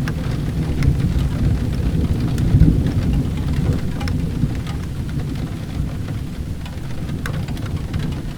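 Steady rain with a low rolling rumble of thunder that swells about two to three seconds in, and a few scattered sharp ticks over the top.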